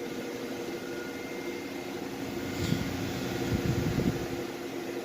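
An engine running steadily, a constant hum with a few soft low knocks about halfway through.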